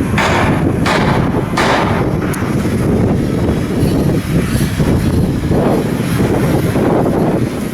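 Loud, continuous low rumble with three sharp knocks in the first two seconds.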